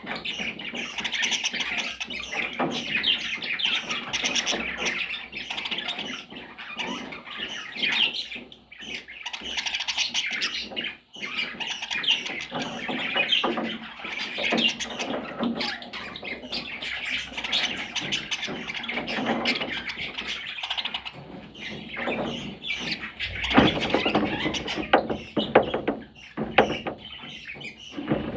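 Pet parrots chattering in a dense stream of quick chirps, with brief breaks about eight and eleven seconds in.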